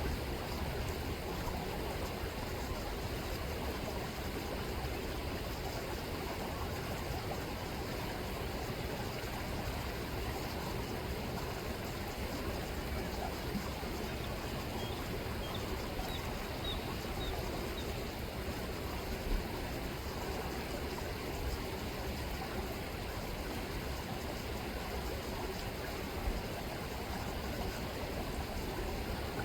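Chilliwack River water rippling and flowing over its bed: a steady, even rush of moving water.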